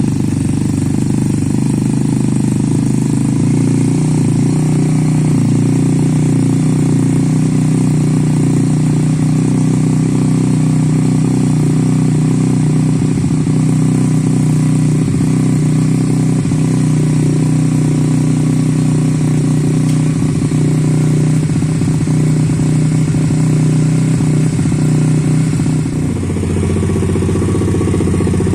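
MRF 140 RC pit bike's single-cylinder four-stroke engine running steadily just after a cold start at −10 °C, following two weeks of standing. About two seconds before the end its note changes and drops a little in level.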